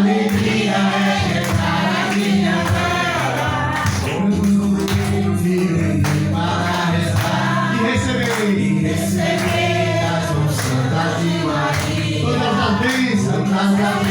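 Group singing of a religious song with instrumental accompaniment.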